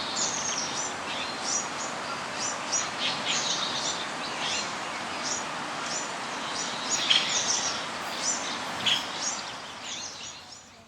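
Small birds chirping: many short, quick chirps that overlap one another, over a steady background hiss, fading out near the end.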